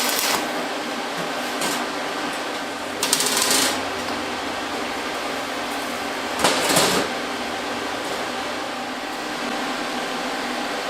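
Crackling hiss of a stick-welding arc that stops just after the start, then a steady fan hum broken by two short, harsh bursts of noise about three and six and a half seconds in.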